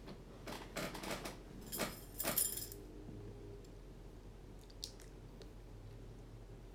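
A person eating close to the microphone: a few short crunching and smacking sounds over the first few seconds, then faint room tone with a low hum.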